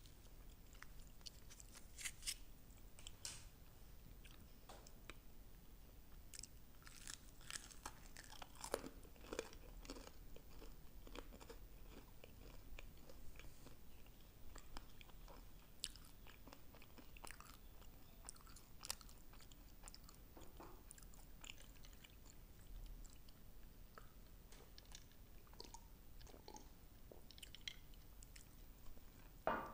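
Close-miked chewing of glazed fried chicken wings, faint, with scattered soft crunches and mouth clicks.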